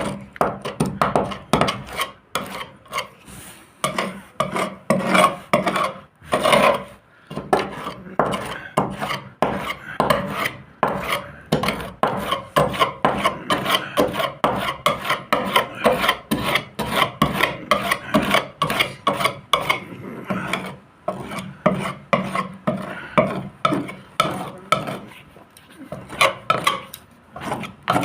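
Hand rubbing on a fibreglass boat hull, rasping back-and-forth strokes at about two a second with a couple of brief pauses.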